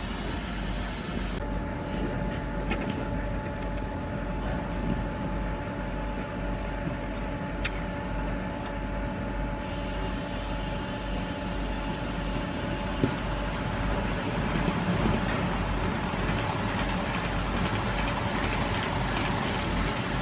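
TT-scale model of a T 478.1 diesel locomotive running, a steady mechanical sound with a constant hum-like tone, and one sharp click about 13 seconds in.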